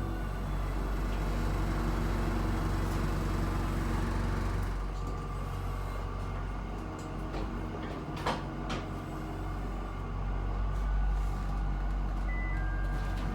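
Box truck's engine running steadily while the truck is being pulled up at a loading dock. A few sharp clacks come about eight seconds in, and short beeps near the end.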